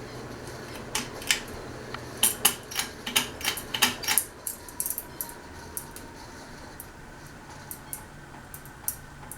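Ceiling fan being put into reverse: a run of irregular sharp clicks and rattles, densest in the first few seconds and thinning to scattered clicks, over a low steady motor hum.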